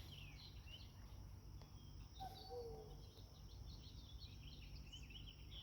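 Faint natural ambience: many small birds chirping, over a steady high insect buzz. About two seconds in, two short low whistled notes.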